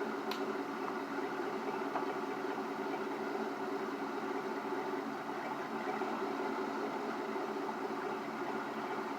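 Pickup truck engine idling steadily, with a single short click about a third of a second in.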